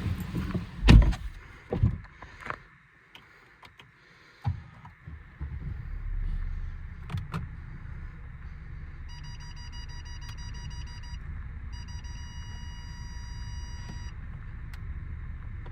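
A few heavy thuds like car doors shutting, then a steady low rumble of a vehicle, with an electronic beeping tone sounding twice for about two seconds each.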